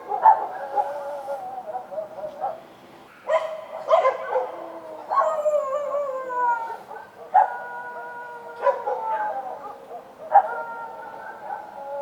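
Several street dogs barking and howling together. Sharp barks come throughout, and long drawn-out howls that slide down in pitch overlap from about five seconds in.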